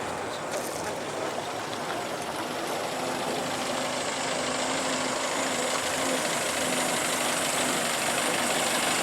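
A vehicle engine running and growing slowly louder as it draws nearer, with a faint steady hum in the middle.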